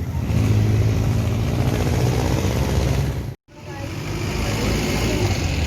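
Road traffic: vehicle engines running and passing by. The sound cuts out abruptly for a moment about three and a half seconds in, then resumes.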